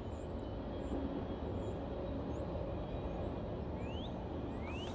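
Low, steady rumble of a CSX freight train moving away after passing the grade crossing. A few short rising chirps come near the end.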